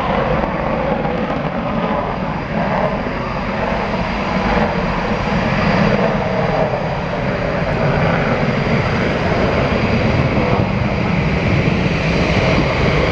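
Panavia Tornado jet's twin Turbo-Union RB199 engines in full reheat at takeoff: loud, steady jet noise that builds slightly.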